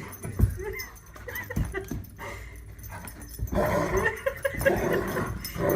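A dog vocalizing in short sounds that bend in pitch, on and off, with a few low bumps in the first two seconds.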